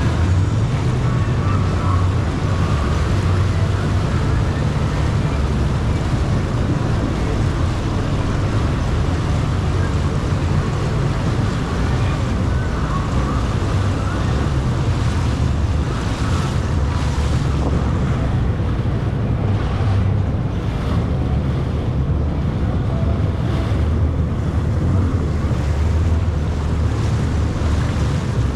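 Jet ski running on open water: a steady low engine drone under wind buffeting the microphone and the rush of water along the hull.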